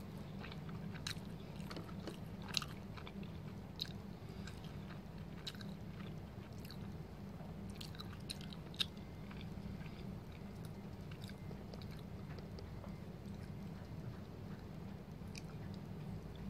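Close-up chewing and biting of a soft green crepe roll filled with sweet grated coconut: small scattered mouth clicks and smacks, most frequent in the first nine seconds, over a steady low hum.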